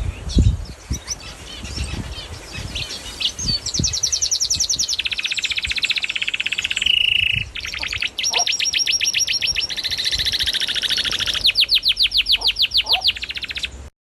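A small bird singing in long, fast trills of rapidly repeated high notes, broken by a short steady whistle partway through; a few low knocks sound in the first few seconds, and the song cuts off suddenly near the end.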